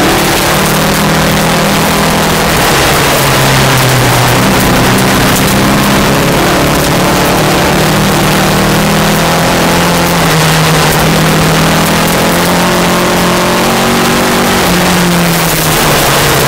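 VW Beetle rally car's engine heard from inside the car as it is driven along a gravel road, its note rising and falling several times over a constant hiss of gravel and road noise.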